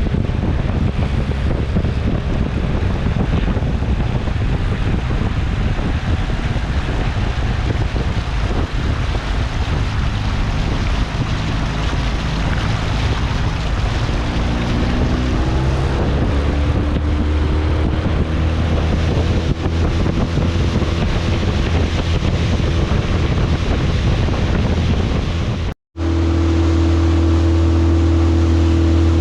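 Motorboat engine running underway, with wind buffeting the microphone and water rushing past the hull. About halfway through, the engine pitch climbs as the boat picks up speed. Near the end there is an abrupt break, and after it the engine runs at a steady, stronger tone.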